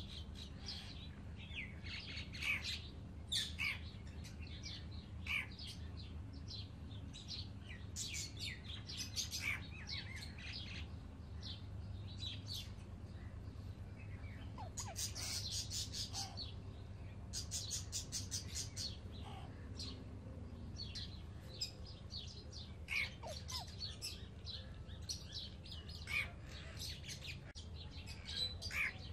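Baby Alexandrine parrots chirping and calling in short, high, repeated chirps, with a quick rapid run of chirps about halfway through. A steady low hum runs underneath.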